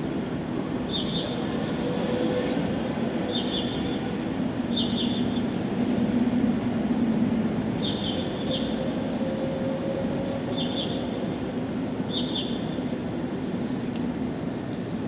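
Songbirds chirping in short, high calls repeated every second or two, over a steady low rumble in the background.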